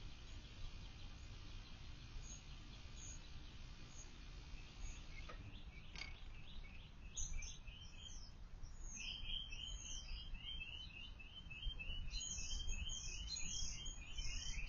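Wild songbirds chirping and singing over a low steady background hum. About halfway through, a fast run of short repeated chirps starts and grows louder toward the end, with higher calls over it.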